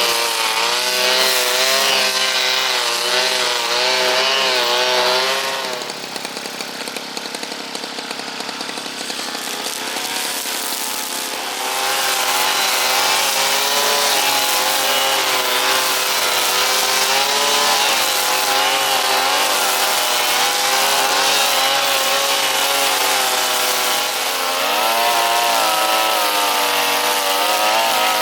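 Brush cutter engine running under throttle, its revs rising and falling as it cuts grass. It eases off to a quieter, lower speed about six seconds in and picks back up near twelve seconds.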